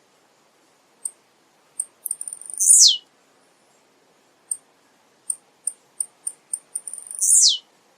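Male blue-black grassquit (tiziu) singing: two short buzzy notes, each sweeping steeply down in pitch, about four and a half seconds apart. Each note is led by a run of sharp high ticks that come faster just before the second one.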